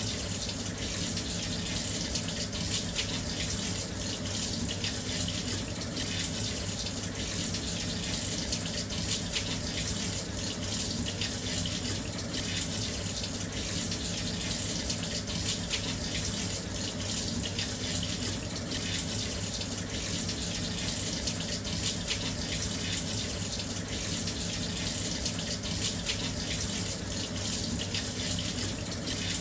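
Washing machine filling with water: a steady, even rush of water running into the drum.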